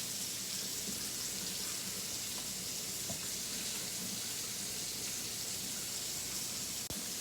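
Flour-and-water slurry being poured into a pot of simmering chicken, a steady watery hiss with a brief click near the end.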